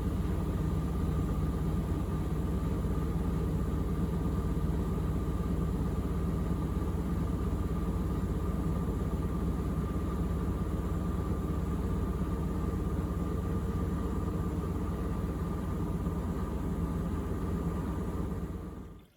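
Miele W3985 washing machine spinning steadily after the main wash: a constant motor whine over a low rumble. It drops away quickly near the end.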